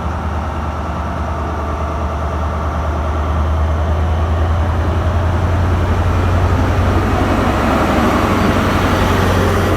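Diesel train engine running with a deep steady drone, growing slowly louder over several seconds.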